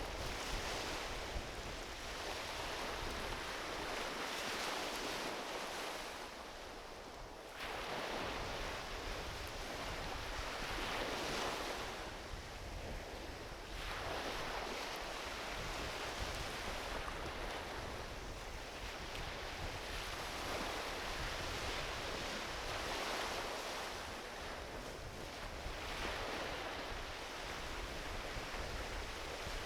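Small ocean waves washing onto a beach, a steady hiss of surf that swells and ebbs every five seconds or so as each wave breaks and runs up the shore.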